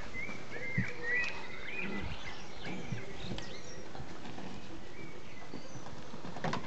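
Small birds chirping in short, arching calls, mostly in the first couple of seconds, over a steady outdoor hiss. A few soft thumps are mixed in, and there is a sharper knock near the end.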